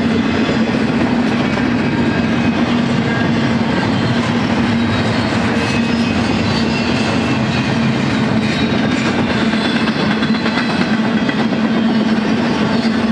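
BNSF double-stack intermodal freight train rolling past, its well cars' wheels on the rails giving a loud, steady rolling noise with a constant low hum.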